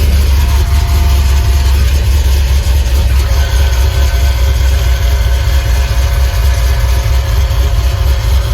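Turbocharged Ram 1500 Hemi V8 idling steadily with a deep, even low rumble. A faint steady whine sits over it.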